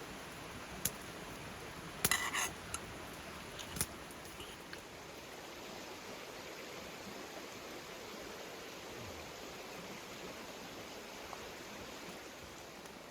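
A few light clicks and a short clatter, like small objects knocking together, over a steady low background hiss.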